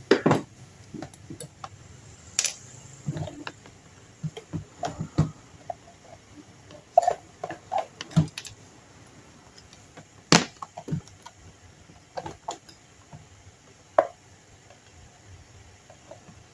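Scattered clicks and knocks of hands and tools on an electric fan's parts as it is taken apart, irregular and sharp with quiet gaps between.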